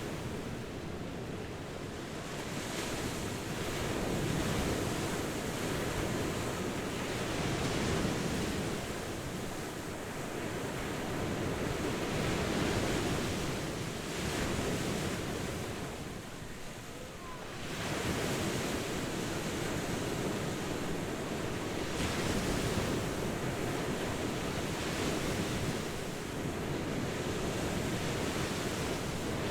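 Ocean surf breaking and washing on a beach, a continuous rushing that swells and eases every few seconds, with a brief lull a little past halfway.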